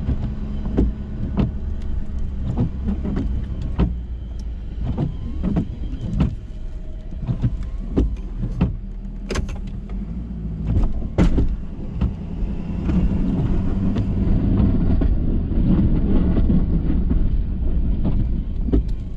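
A Ford F-350 pickup running while plowing snow: a steady engine hum with frequent sharp clicks and clunks. From about two-thirds of the way in, a heavier rumbling noise builds up.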